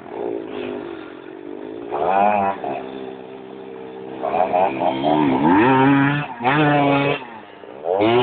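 Dirt bike engine running and revving, its pitch rising and falling several times between steadier stretches.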